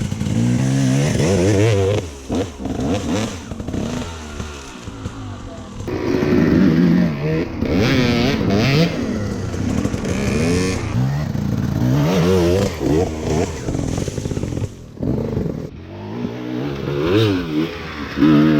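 Dirt bike engine revving, its pitch rising and falling over and over as the throttle is worked, with a few brief drops.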